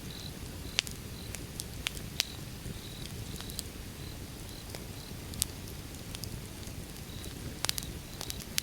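Bonfire of burning firewood: a steady low rumble of flame with scattered sharp crackles and pops from the wood, several pops close together near the end. Faint short high chirps repeat in the background.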